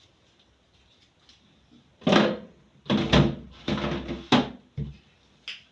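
A refrigerator being handled as food is put back in: a run of knocks, bumps and scrapes of its door, shelves or drawers, starting about two seconds in.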